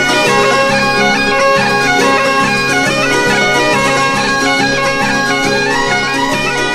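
Bagpipe music: a melody stepping from note to note over steady drones.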